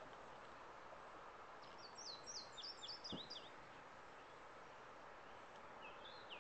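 A songbird sings a short phrase of quick, high, down-slurred notes about two seconds in, and a shorter phrase near the end, over a faint steady background hiss.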